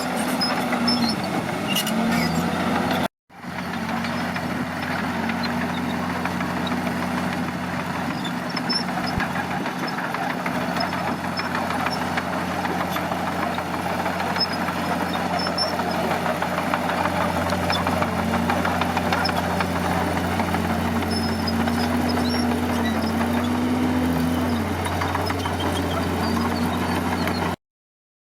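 Bulldozer's heavy diesel engine running steadily under work, its pitch wavering slightly as it is loaded. The sound drops out briefly about three seconds in and cuts off abruptly near the end.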